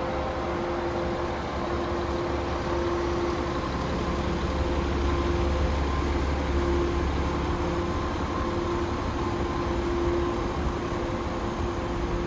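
Diesel engine of a DAF CF460 tractor unit (Paccar MX-13 six-cylinder, 460 hp, Euro 6) idling steadily, a deep rumble with a constant hum.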